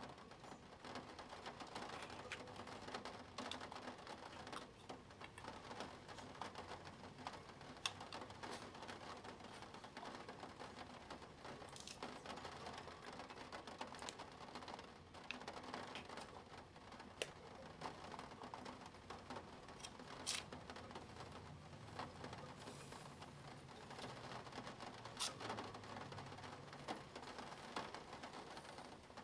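Spirograph drawing: a pen scratching softly and steadily on paper as the plastic gear wheel is worked, with scattered light clicks and ticks.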